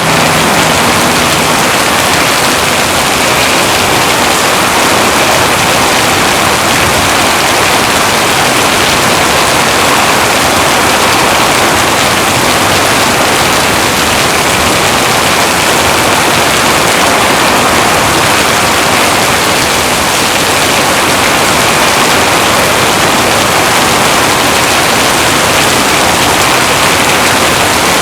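Heavy rain pouring down, a loud, steady, dense hiss with no let-up.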